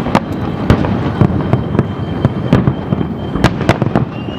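Fireworks going off one after another: a dense, continuous low rumble of bursts with sharper bangs and cracks standing out at irregular moments.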